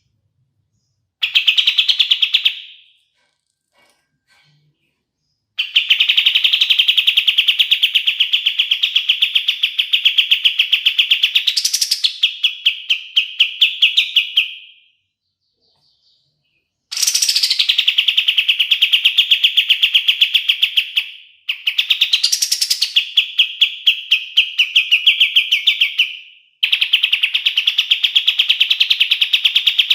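Kapas tembak bird singing long, rapid rattling trills of evenly repeated notes, in phrases of a few seconds with short pauses between them. Two of the phrases carry a quick rising sweep partway through.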